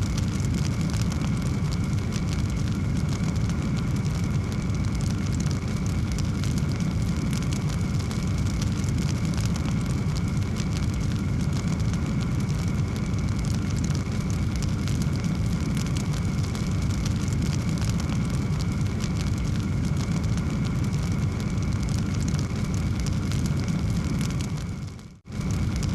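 Wood fire burning in a fireplace: a steady low rumble of flame with continuous small crackles. The sound drops out briefly, fading away and back, about a second before the end.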